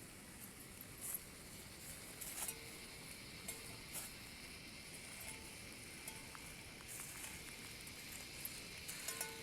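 Rain falling steadily as a faint hiss, with scattered sharp ticks of drops striking nearby surfaces.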